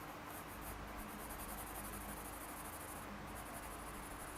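Graphite pencil shading on drawing paper: a soft, continuous scratching of strokes, with a short break about three seconds in.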